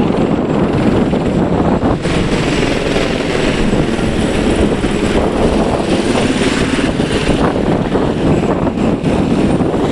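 Tour helicopters' rotors and engines running close by: a loud, steady rotor-and-engine drone with no break.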